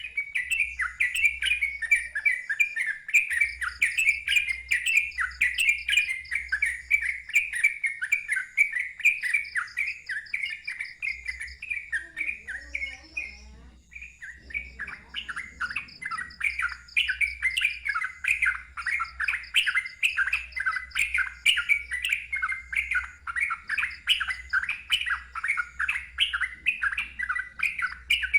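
Yellow-vented bulbul (trucukan) singing a fast, continuous run of chattering notes, with a brief pause about halfway through before it resumes.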